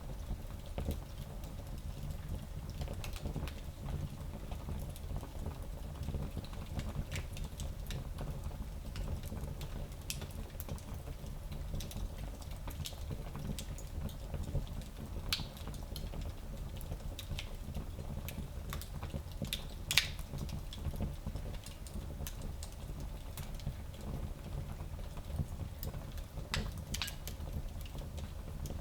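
Wood fire burning in a small fireplace: a steady low rumble of flames with frequent irregular crackles and pops, the sharpest pop about two-thirds of the way through.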